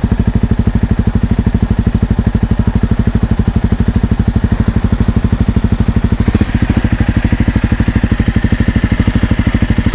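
Honda CRF250L's single-cylinder 250 cc engine idling steadily, with an even, fast beat of firing pulses.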